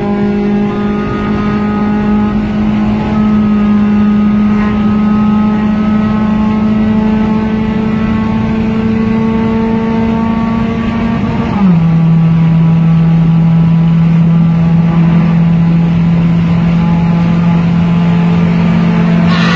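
Four-cylinder car engine heard from inside the cabin, pulling at high revs with its pitch slowly creeping up. About twelve seconds in, an upshift drops the pitch sharply, and the engine then climbs slowly again, a little louder.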